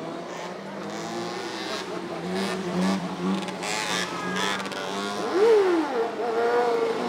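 Motorcycle engines running and revving in the street. The engine pitch climbs over the first few seconds, and one engine revs sharply up and back down about five and a half seconds in.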